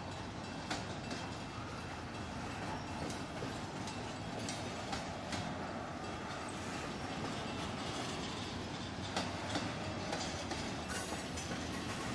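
Intermodal freight train's double-stack well cars rolling past: a steady rumble of steel wheels on rail, broken by scattered sharp clicks and clanks from the wheels and couplings.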